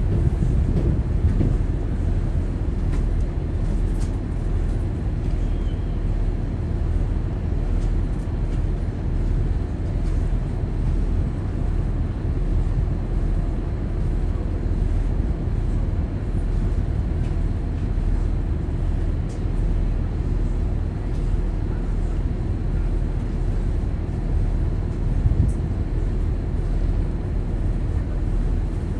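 Steady low rumble of a high-speed catamaran ferry under way, its engines and the water running at an even level throughout.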